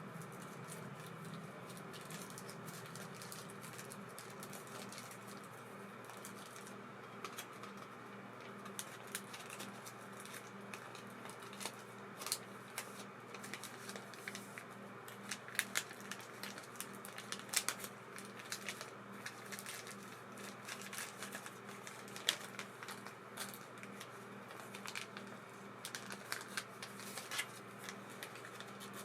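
Light, irregular clicks and taps of small reel parts and tools being handled, sparse at first and more frequent after several seconds, over a steady low hum.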